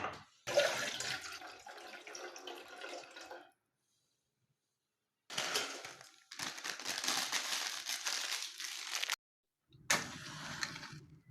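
Water running and splashing, in three stretches that start and stop abruptly.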